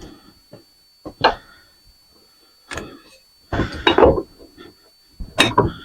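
Banging on a ceiling fan's metal parts to knock a piece out: separate knocks about one and three seconds in, then a rattling cluster of blows around four seconds and another near the end.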